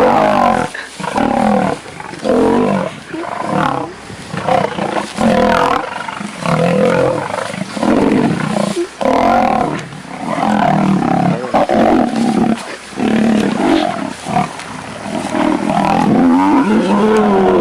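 Lions snarling and growling in a fight: a string of short, loud calls about a second apart, their pitch bending up and down.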